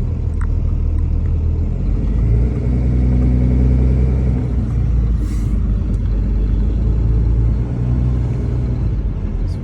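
Box truck's engine running steadily and low, its pitch shifting slightly about two seconds in and again near eight seconds, with a brief hiss about five seconds in.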